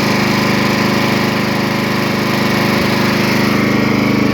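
The Craftsman LT1000 lawn tractor's 18 hp Briggs & Stratton engine running steadily, soon after being started, and sounding healthy.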